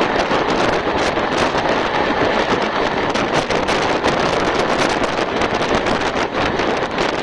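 Moving express train heard from the window: loud steady rushing of wind on the microphone over the train's running noise, with frequent short clicks and knocks.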